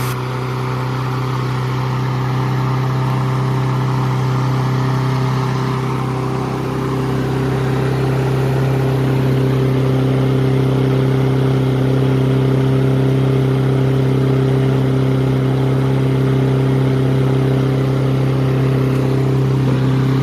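Honda lawn mower engine running steadily at high speed after starting right away on a cleaned carburettor; the idle runs at a high RPM that the mechanic says needs adjusting.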